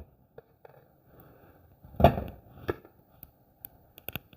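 Mackerel pieces being moved into an earthenware cooking pot: a few soft knocks and clicks of fish and utensil against the clay, the loudest a short thump about two seconds in, with a quick run of sharp clicks near the end.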